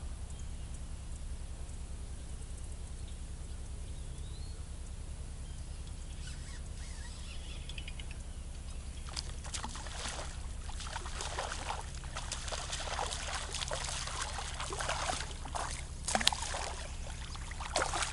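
Water sloshing and splashing, turning busier and louder about halfway through, over a steady low rumble.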